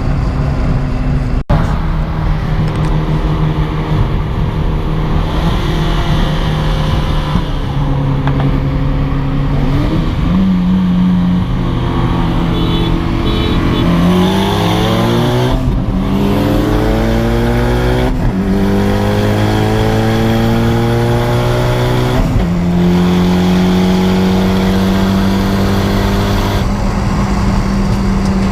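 Car engine accelerating hard through the gears. Its pitch climbs and then drops sharply at each upshift, three times in the second half.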